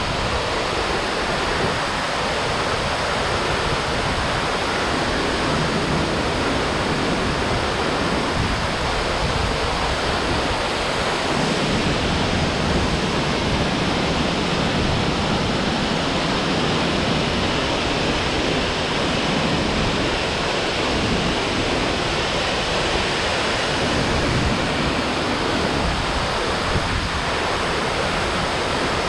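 Waterfall water rushing steadily, an even wash of noise that holds at a constant level.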